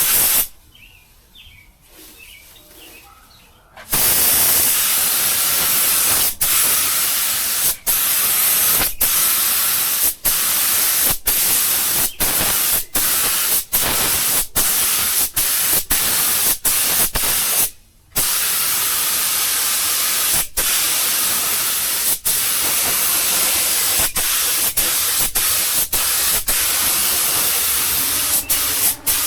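Paint sprayer hissing as clear coat is laid on, starting about four seconds in, in steady passes broken by short pauses about once a second and a longer pause a little past halfway.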